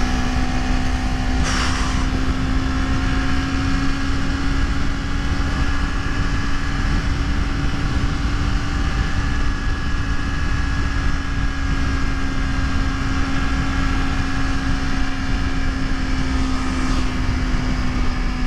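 Honda CBR250RR motorcycle engine running steadily at high revs while cruising, its pitch held nearly constant and sagging slightly near the end, under a constant wind rumble on the helmet microphone. A brief hiss about a second and a half in.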